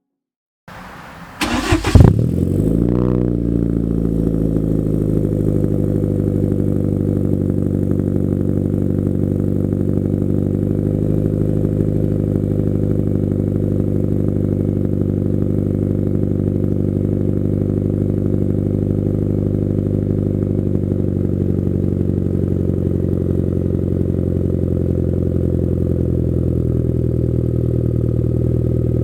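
Hyundai Genesis Coupe 2.0T's turbocharged four-cylinder starting through an ISR GT single-exit exhaust: a brief crank about a second in, a loud flare as it catches, then the revs fall and it settles into a steady idle.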